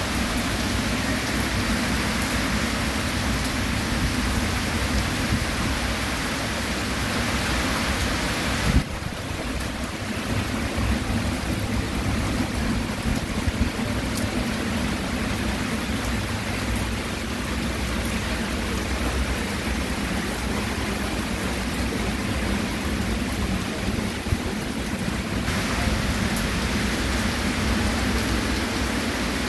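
Steady rain falling, an even hiss of drops. About nine seconds in the sound changes abruptly and turns duller with less hiss, then brightens again near the end.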